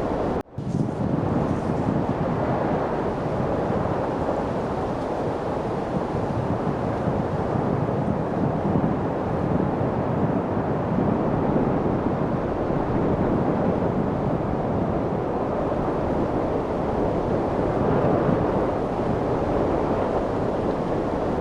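Steady wind noise, an even rushing that surges gently, which drops out for an instant about half a second in.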